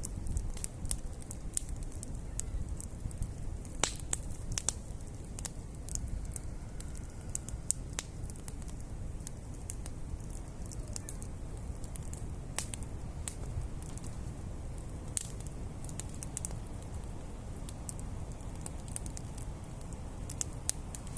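Wood campfire crackling: irregular sharp pops and snaps scattered over a steady low rumble.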